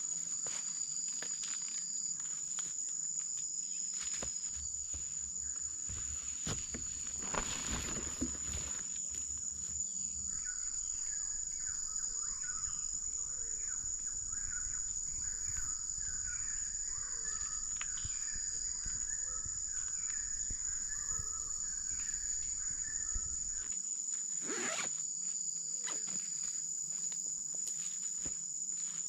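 Forest insects, crickets, keep up a steady high-pitched drone. From about a third of the way in to near the end, a run of quick chirping calls from another animal sits below it, and a few soft knocks come now and then.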